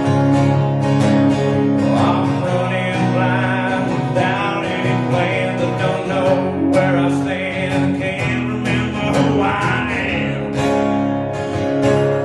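Acoustic guitar strummed steadily, with a gliding melody line over the chords from about two seconds in until about ten seconds in.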